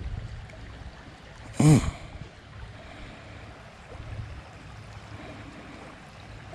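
Creek water running steadily, with one short vocal sound from a person about a second and a half in.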